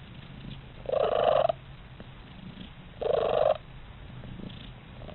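Domestic cat purring steadily, with two short pitched calls over the purr, about a second in and again about three seconds in.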